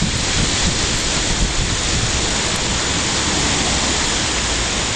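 Strong wind from the remnants of Hurricane Ike blowing steadily over the microphone: a dense, even rush with a buffeting rumble underneath.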